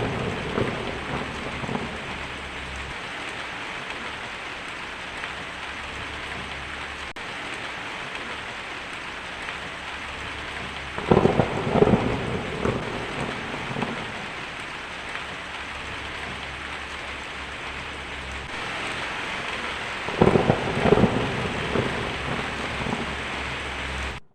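Thunderstorm: steady heavy rain with thunder claps, each starting suddenly and fading over a few seconds. One clap is dying away at the start, and new ones break about eleven and twenty seconds in.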